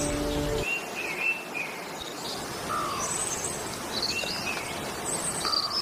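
Birds calling: repeated short, falling chirps, high thin notes and a lower descending call that recurs about every two and a half seconds. Background music cuts off in the first second.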